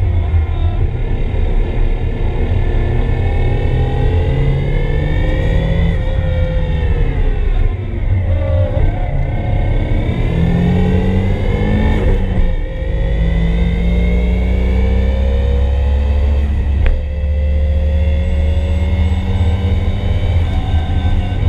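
Turbocharged SR20DET four-cylinder engine of a Nissan 240SX under hard acceleration, heard from inside the cabin: the revs climb, drop sharply about six seconds in, fall away over the next few seconds, then climb again, with brief dips near the middle and about two-thirds of the way through.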